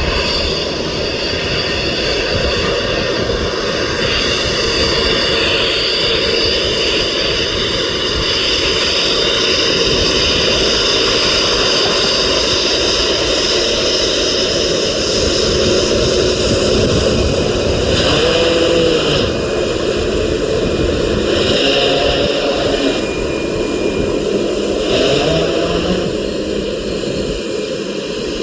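Boeing 737 jet engines running, a loud, steady rumble with several high whining tones held at an even pitch.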